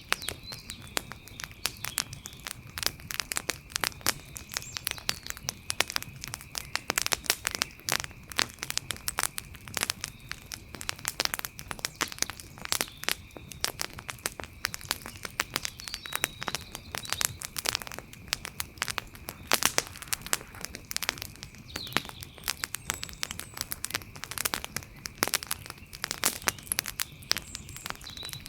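Wood fire crackling, with irregular sharp cracks and pops several times a second over a low hiss of burning.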